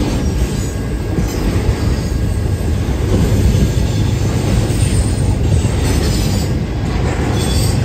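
Intermodal freight train of trailers on flatcars rolling steadily past, a loud continuous rumble of wheels on rail with brief high-pitched wheel squeals now and then.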